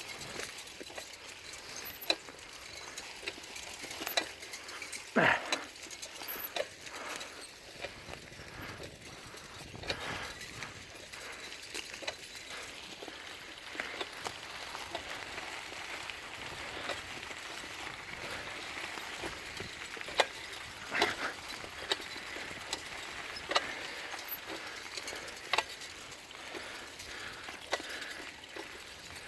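Bicycle being ridden along a path: steady rolling tyre noise with scattered clicks and rattles.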